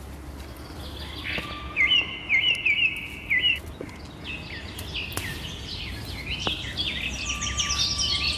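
Birds chirping and singing: a run of quick repeated notes in the second and third seconds, scattered chirps, and fast busy chirping near the end, over a low steady hum.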